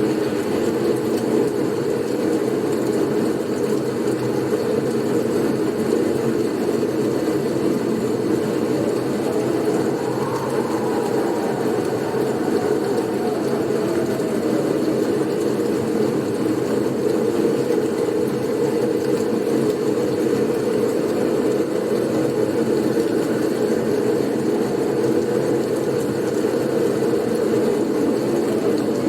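Blizzard wind blowing steadily as a low rushing noise, with a faint whistle that rises and then falls about ten seconds in.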